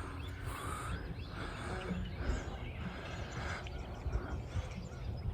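Faint outdoor ambient noise: an uneven low rumble with short, faint chirps every second or so.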